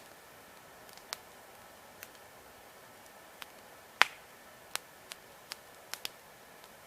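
Wood campfire crackling: logs burning with about ten sharp, irregular pops, the loudest about four seconds in.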